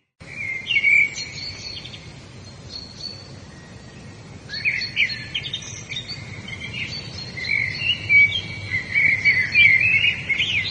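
Songbirds singing, in bursts of quick chirps and short trills, over a steady soft hiss; the busiest stretch comes in the second half.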